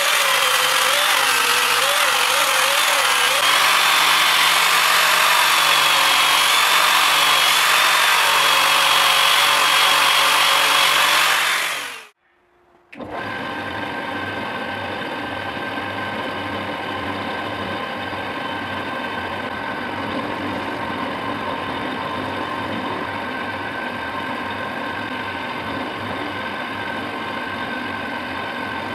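Power tools running in a workshop. A loud high-speed tool runs with its pitch wavering under load, then cuts off about twelve seconds in. After a short silence a quieter machine runs steadily with a constant hum.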